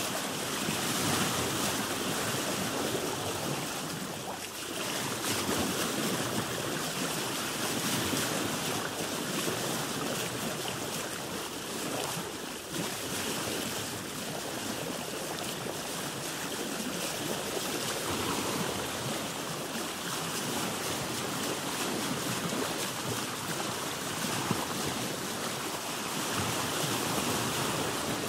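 Sea water washing and lapping against a boat, with some wind: a steady wash of noise that eases briefly twice and swells again.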